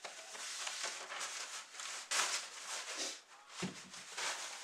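Eating sounds: a mouthful of food being chewed, with irregular wet mouth noises, and a soft knock about three and a half seconds in.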